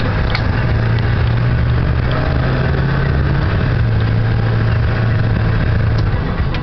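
Ford 7.3-litre Powerstroke turbo-diesel V8 running steadily while the truck is driven, a loud low drone whose pitch drops slightly about halfway through.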